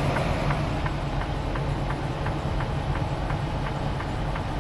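Semi truck running down the highway, heard from the cab: a steady low engine and road drone with a rhythmic clacking about three times a second from the tire chains slapping the road.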